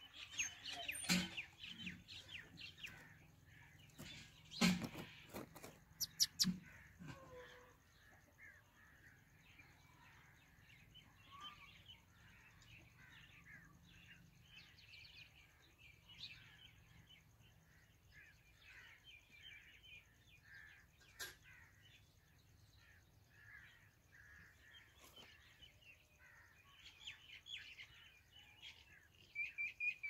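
Small birds giving thin, high chirps throughout, busiest near the end, with a few sharp knocks in the first seven seconds.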